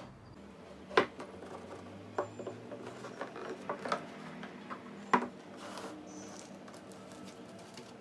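Packaging being opened and handled: light rustling and a run of small clicks and taps, with two sharper knocks, about a second in and about five seconds in.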